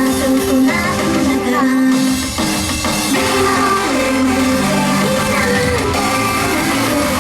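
Female idol group singing over loud pop-rock music with guitar and drums, heard through a live-house sound system.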